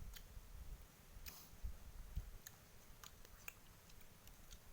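Near silence with a few faint, scattered clicks and a low rumble in the first couple of seconds.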